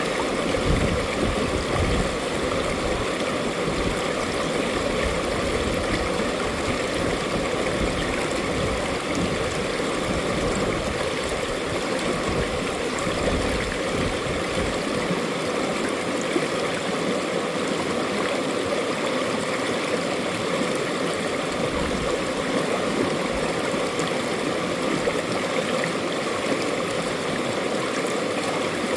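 Mountain valley stream flowing, a steady rushing and gurgling of water, with a deeper rumble in the first half that eases off about halfway through.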